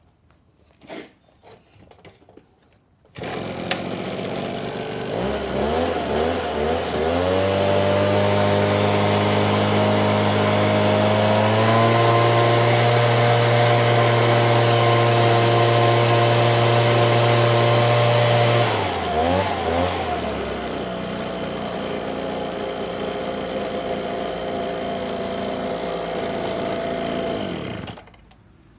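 Makita EUB250 engine blower starting up about three seconds in, its engine speed climbing over the next few seconds to a steady run. It steps up to a higher speed about twelve seconds in, drops back to a lower speed near nineteen seconds, then cuts off suddenly near the end.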